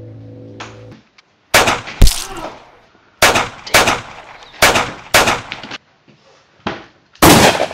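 Gunshots in a shootout: about eight sharp single shots at uneven intervals, starting about a second and a half in.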